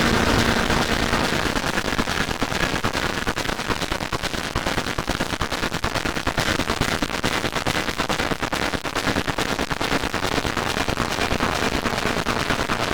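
Harsh electronic noise from many layered sound loops playing at once, a dense, rapid crackling rattle.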